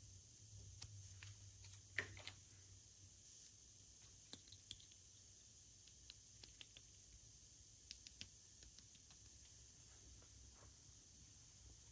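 Near silence with faint, scattered clicks and light taps; the sharpest comes about two seconds in, with a few more around the middle.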